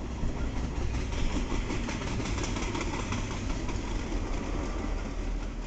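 Rail-carrying flatcars of a maintenance-of-way train rolling past, a steady rumble of steel wheels on rail with faint clicking.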